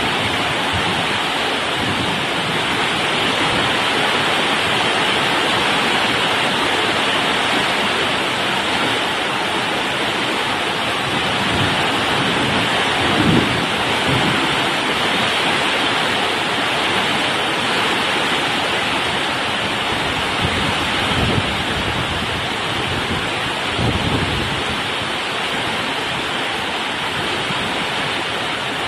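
Heavy rain pouring down steadily in a thunderstorm, with a few brief low rumbles about halfway through and twice more later on.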